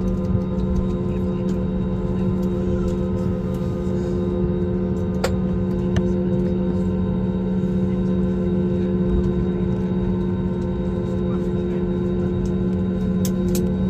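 Steady drone inside an airliner cabin: engine and airflow rumble with a constant low hum and a few fainter steady tones above it, and a few brief faint clicks.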